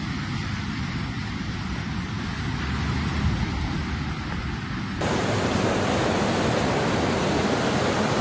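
Fast-flowing floodwater rushing, a steady noisy roar with no distinct events. About five seconds in it cuts abruptly to a louder, brighter rush.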